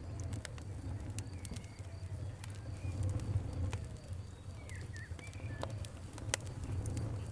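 Wood fire crackling: irregular sharp pops and snaps, a few especially loud ones, over the steady low rumble of the flames.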